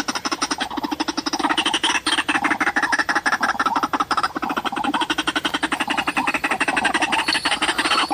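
White-breasted waterhen (ruak-ruak) call: a fast, continuous run of harsh repeated croaking notes, the lure call used to draw the birds to the trap.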